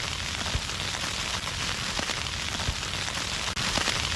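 Snow falling on a tent's fabric: a steady fine hiss with many light ticks, broken by a brief dropout about three and a half seconds in.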